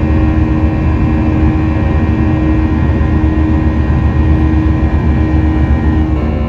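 Boeing 737 cabin noise in flight: a steady, loud engine drone with a deep rumble and a set of steady fan tones over it, shifting slightly just before the end.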